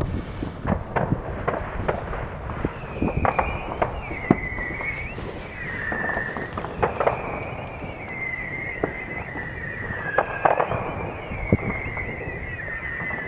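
Fireworks going off across a city, a steady scatter of pops and bangs of varying loudness. A high wavering whistle sounds on and off from about three seconds in, drifting slowly lower in pitch.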